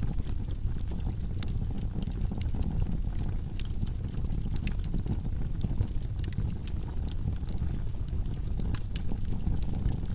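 Wood log fire burning in a fireplace: a steady low rush of flames with frequent sharp crackles and pops from the logs, several a second.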